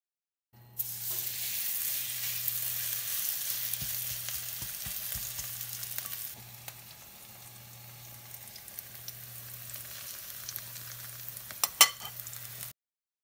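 Pancake batter and minari (water celery) sizzling in hot oil in a stainless steel frying pan. The hiss is loud at first and drops suddenly to a quieter sizzle about halfway through. A few sharp clicks near the end are the loudest sounds.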